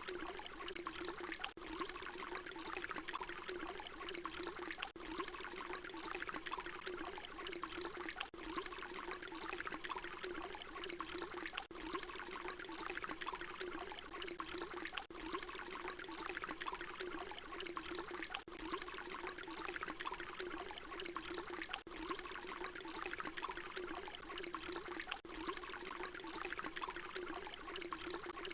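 Water pouring in a steady stream. It is a short recording looped over and over, with a brief dip in the sound about every three and a half seconds where the loop repeats.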